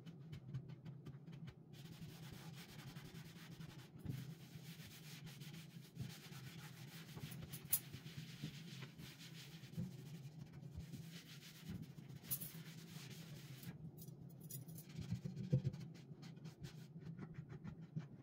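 Household cleaning sounds: continuous rubbing and scraping with scattered light knocks and clicks of objects being handled, over a steady low hum.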